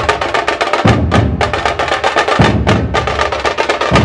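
Dhol tasha drumming: a fast, continuous stream of sharp tasha strokes over deep dhol beats that land about every second and a half.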